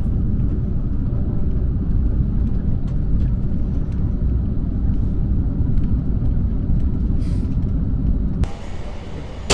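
Steady low rumble of a passenger train running at about 120 km/h, heard from inside the coach. About a second before the end it drops abruptly to a much quieter interior, ending on a sharp click.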